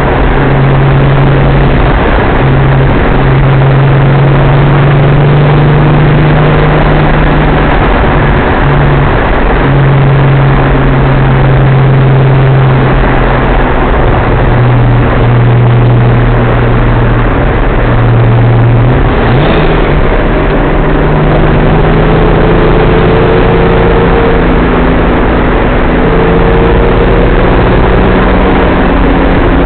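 Datsun 280ZX Turbo's turbocharged 2.8-litre straight-six, heard loud from inside the cabin while driving, over steady road and wind noise. The engine note holds steady for most of the stretch, then changes about two-thirds of the way through and climbs as the car pulls again.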